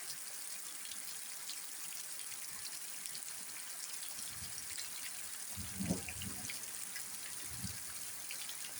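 Rain falling steadily, a continuous hiss dotted with small drop ticks. Low dull thuds come in about halfway through, the loudest about six seconds in.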